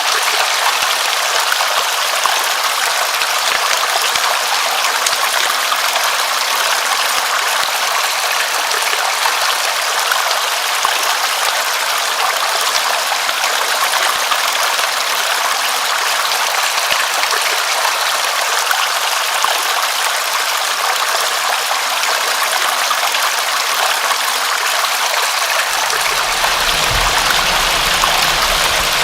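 Steady heavy rain, an even rushing hiss with no breaks. About 26 seconds in, a low rumble joins underneath.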